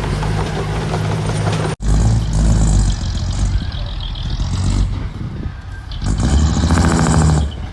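Diesel engine of heavy earthmoving machinery running and working under load, broken by a sudden cut about two seconds in. It rises loud again near the end with a fast rattle, then drops off.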